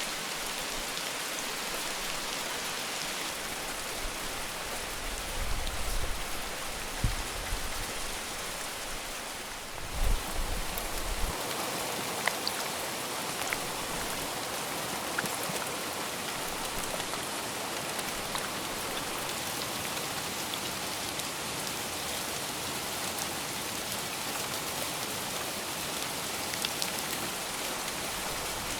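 Steady heavy rain falling, with scattered drops ticking and a few brief low thumps between about five and eleven seconds in.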